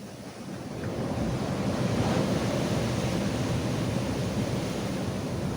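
Ocean surf washing onto rocks: the wash swells about a second in and stays loud, with some wind on the microphone.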